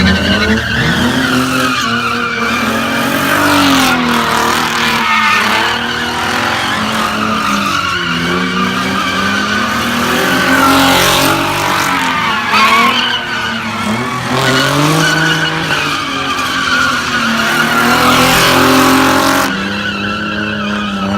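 Car engine revving, its pitch rising and falling again and again, with tires squealing almost without a break as the car spins its wheels. The squeal drops away shortly before the end.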